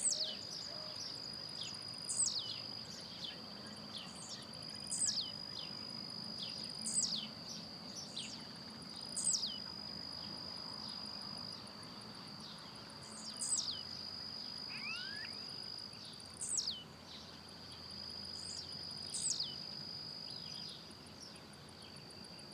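Blue-black grassquit (tiziu) giving its short song over and over, a sharp downward-sliding note about every two to three seconds. A steady high insect trill runs underneath, broken briefly twice.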